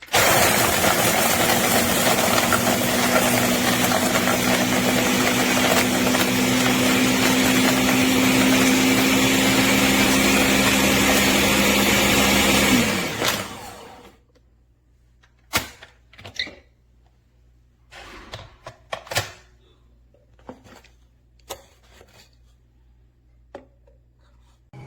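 Ninja NJ601AMZ 1000-watt countertop blender running steadily for about thirteen seconds, then spinning down to a stop. A few scattered clicks and knocks follow.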